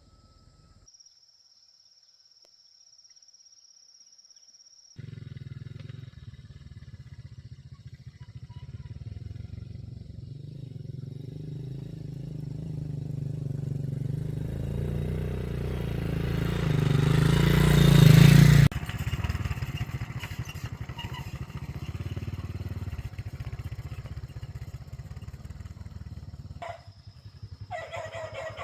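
An engine running, growing steadily louder for about thirteen seconds, then dropping off suddenly and running on more quietly, with a few clicks near the end.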